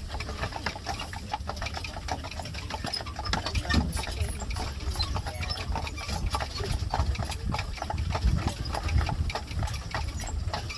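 Horse hooves clip-clopping in a steady, irregular patter as a horse-drawn buggy rolls along, over a constant low rumble of the buggy's wheels, heard from on board.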